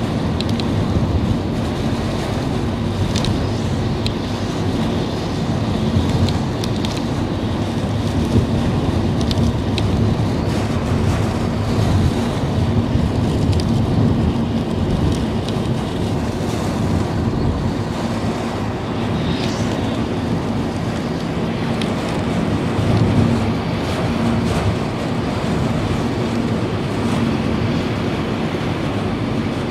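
A car driving through heavy rain, heard from inside the cabin: steady road and engine noise with a low hum, rain and water spray washing against the body and underside, and a few faint ticks.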